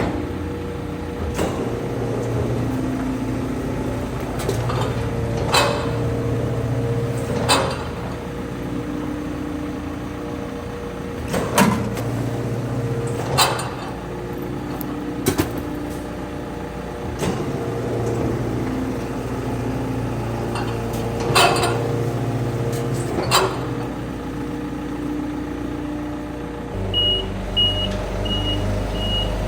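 Rotary-plate packer garbage truck working its loading mechanism: the engine and hydraulics hum steadily, the pitch shifting as the rotating plate cycles, with occasional sharp clanks. Near the end the hum drops and high warning beeps start at about two a second.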